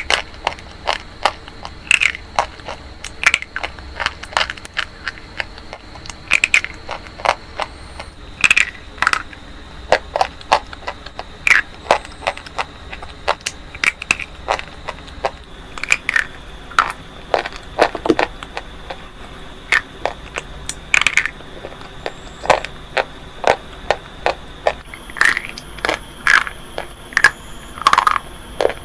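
Crunching: a dense run of sharp crackles and snaps from something being crushed, busier and louder from about eight seconds in, easing off around fifteen seconds and again near twenty-two seconds.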